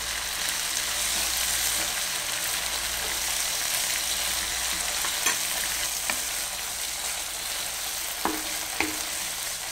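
Tuna and gravy sizzling steadily in a frying pan, with a few sharp knocks of spoons against the pan in the second half as chopped green chillies go in and the mixture is stirred.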